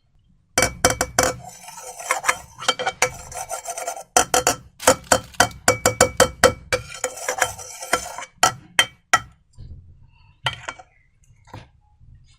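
Slime being squished and worked by hand, a rapid run of crackling clicks for about nine seconds, then a few single clicks near the end.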